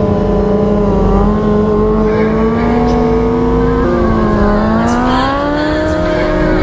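Motorcycle engine running under way at steady revs, its pitch dipping about four seconds in and then climbing as it speeds up again.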